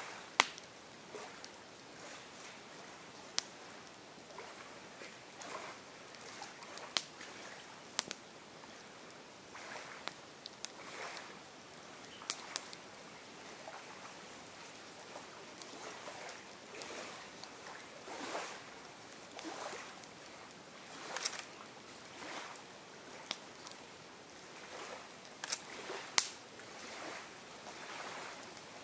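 Campfire burning: wood crackling, with scattered sharp pops, the loudest near the end, and soft hissing swells every second or two.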